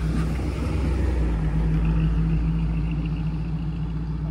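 Third-generation Pontiac Trans Am's V8 running as the car pulls away at low speed, its low note loudest about two seconds in and easing slightly as it moves off.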